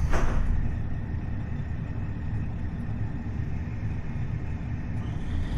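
KiHa 40 series diesel railcar under way, its DMF15HSA diesel engine and wheels on the rails making a steady low rumble. A brief hiss sounds right at the start.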